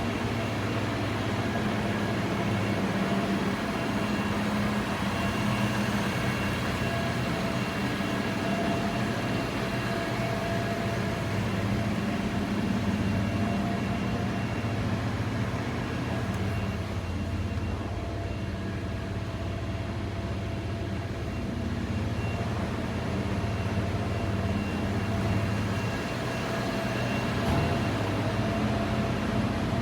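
Vehicle engine running steadily at idle: a low, even hum with faint steady tones above it.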